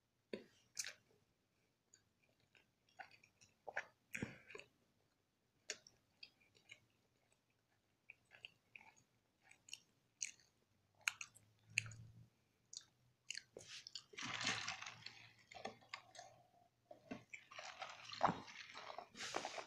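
A person chewing food close to the microphone with the mouth closed: scattered soft wet clicks and smacks. In the second half come two longer stretches of hissing noise, each lasting a second or two.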